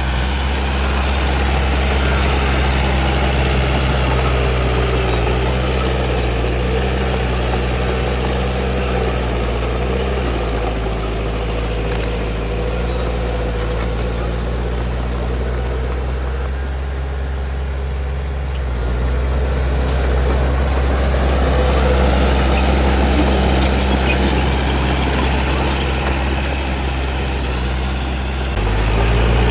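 Heavy diesel earthmoving machine running steadily, its engine note easing a little past the middle and building again shortly after.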